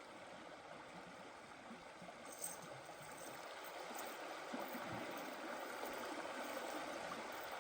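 Faint, steady rush of flowing water, growing a little louder from about two seconds in.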